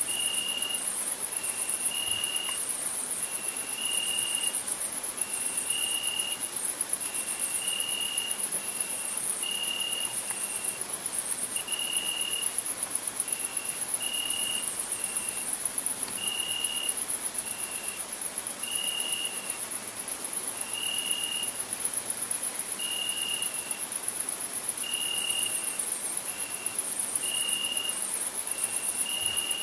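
Crickets singing: a continuous, very high-pitched trill, with a lower short chirp repeating every second or two.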